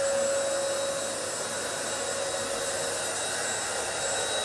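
Vacuum cleaner motor running steadily, a continuous whirring rush with a steady whine that eases slightly about a second in.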